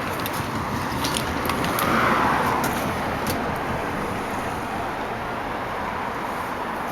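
Steady motor-vehicle noise that swells briefly about two seconds in, with a few light clicks.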